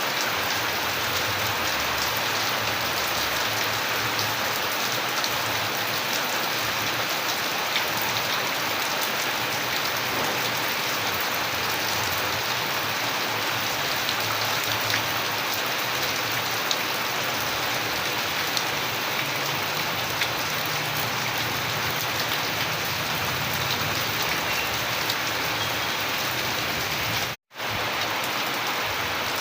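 Steady rain falling, an even hiss flecked with many small drop hits. It cuts out to silence for a split second near the end, then resumes.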